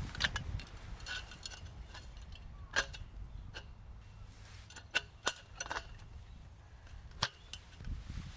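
About half a dozen separate sharp clicks and light knocks, spaced irregularly, over a low steady rumble.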